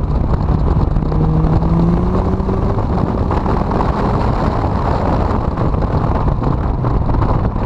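Honda CRX engine running on track, heavily buried under rumble and wind noise on the microphone; its note rises gently about a second in, then fades back into the noise.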